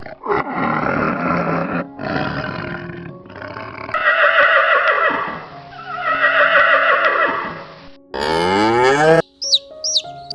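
A run of different animal calls, one after another: four long calls with breaks between them, then a different call with a rising pitch about eight seconds in, and two short high chirps near the end.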